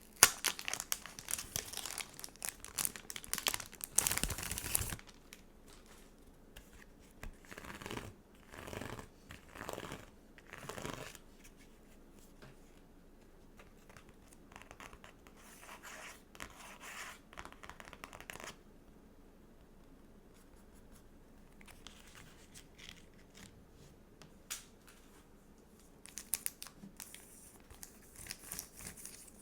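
Stickers and their plastic packaging handled close to the microphone: dense crinkling and tearing for the first five seconds, a few short rustles around eight to eleven seconds in, a long quiet stretch with faint touches, then crinkling again near the end.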